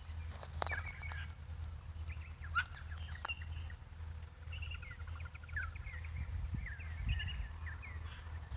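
Small birds chirping and twittering, with short repeated trills, over a steady low rumble and a couple of sharp clicks.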